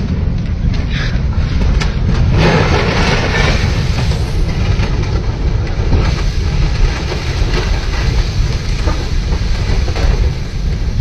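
Loud continuous rumble of a huayco, a mudflow of water, mud and rocks rushing down its channel, briefly louder about two and a half seconds in.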